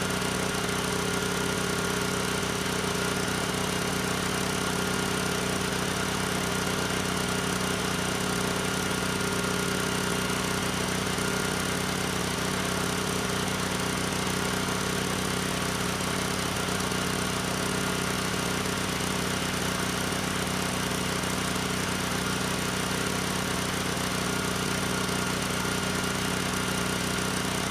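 Sportsman 9000-watt portable generator's engine running at a steady constant speed, a continuous even drone with no change in pitch.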